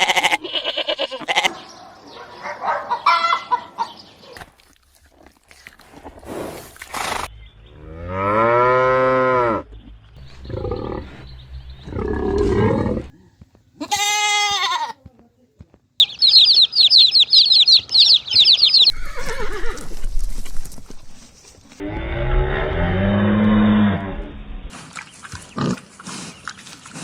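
Farm animals calling across a string of short clips: a long drawn-out call about eight seconds in, a shorter high call near the middle, rapid high chirping for a few seconds after it, and another long low call near the end.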